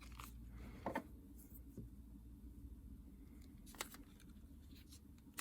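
A few faint, sharp clicks and taps of small parts being handled at a workbench, over a quiet low hum.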